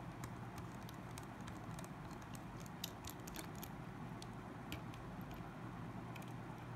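Small, light clicks and ticks, scattered irregularly, from small tools and plastic phone parts being handled during disassembly, over a steady low hum.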